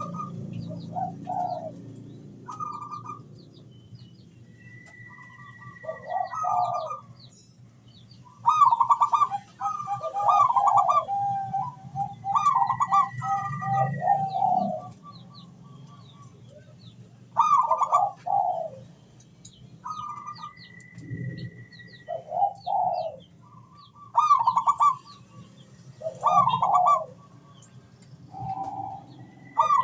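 Zebra doves (perkutut) singing, repeated phrases of rapid staccato cooing every few seconds, with a short steady high whistle recurring between phrases and faint chirps of small birds.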